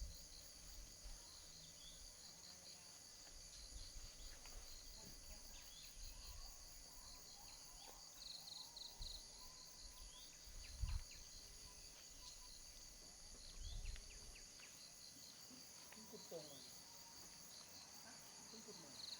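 Faint, steady chorus of insects, with a high continuous drone and a pulsing trill that comes and goes, over scattered short bird chirps. Two brief, dull low thumps, one a little past the middle and one about three-quarters through.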